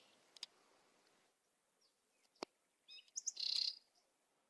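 Faint bird chirps: a single sharp click, then a short run of high chirps about three seconds in.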